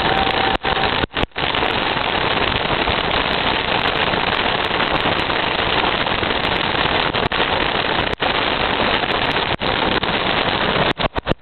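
Heavy rain pouring down as a loud, steady hiss. The sound drops out for a split second a few times, and in quick succession near the end.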